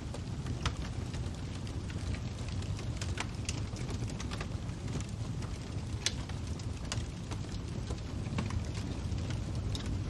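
Fire crackling: a steady low rumble with irregular sharp pops and snaps, several seconds apart.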